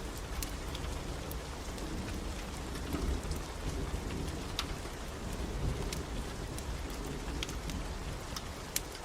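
Steady rain hiss over a low rumble, with sharp crackles and pops of a burning wood fire scattered irregularly throughout.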